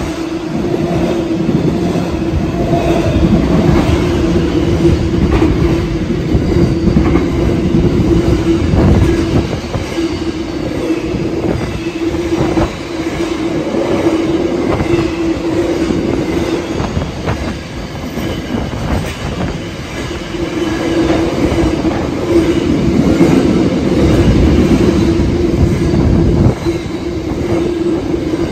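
Container freight train passing close by at speed: wagon wheels clicking over the rail joints over a continuous rumble, with a steady droning tone held through most of the pass.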